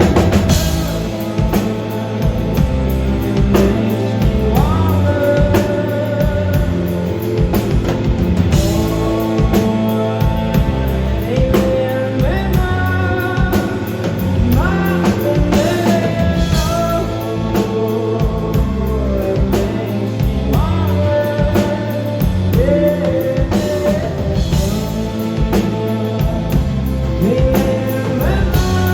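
Live rock band playing a song: a male singer's voice over electric guitar, bass and drum kit.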